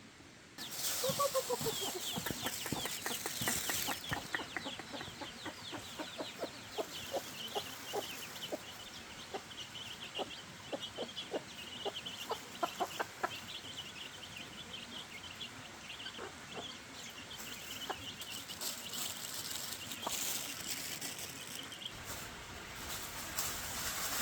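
Chickens clucking in short calls, with a steady high chirping running behind them; the sound begins abruptly about half a second in.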